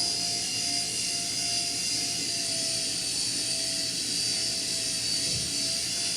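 Toy remote-control helicopter's small electric motors and rotors running at a steady high-pitched whine.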